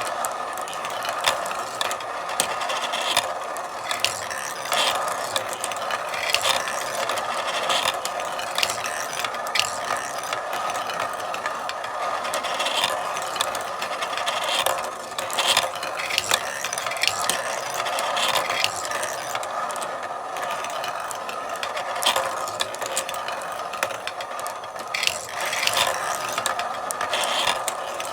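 Marble run in motion: a steady rolling rattle of marbles on the track, broken by frequent irregular clicks and clacks.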